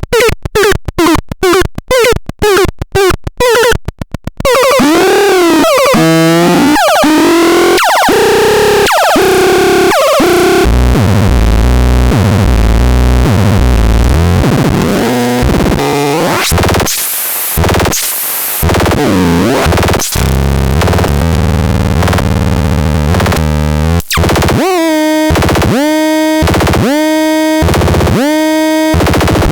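Tukaton SL electronic sound device playing harsh synthetic tones: choppy, rapidly stuttering pulses at first, then wavering pitch glides, a long loud low buzz with bursts of hiss, and near the end a tone repeating about once a second, each note swooping into pitch.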